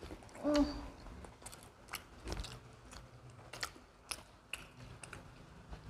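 People chewing pizza close to the microphone: soft, irregular mouth clicks and smacks of eating, with a brief vocal 'mm' about half a second in.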